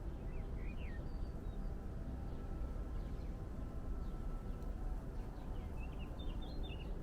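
Small birds chirping in short twittering phrases, a few in the first second and a quicker run near the end, over a steady low rumble.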